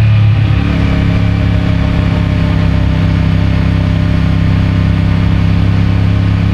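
CFMOTO 450MT's parallel-twin engine with its stock exhaust, easing off just at the start and then running steadily at low revs.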